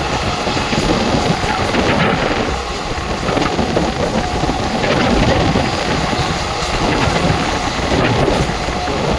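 Steady, loud rumble and rush of an ICF passenger coach running at speed, heard from on board.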